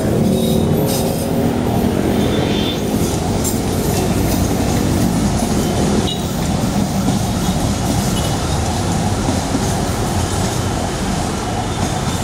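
Passenger train coaches rolling past on the rails: a steady rumble of wheels on track, with a few clicks early on and a faint wheel squeal about three seconds in.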